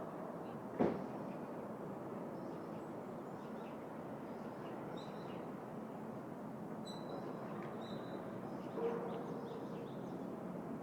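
City park ambience: a steady low rumble of distant city traffic, with a few short bird chirps in the middle. There is a sharp knock about a second in.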